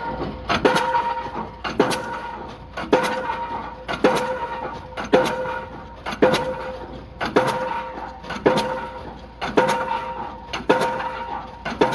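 Diesel pile hammer driving a spun concrete pile: heavy blows at a steady rhythm of about one every second, each with a metallic ring that fades before the next strike.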